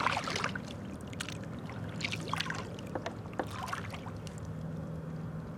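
Water splashing and lapping against a kayak in short bursts, a few times, with scattered light clicks over a low steady hum.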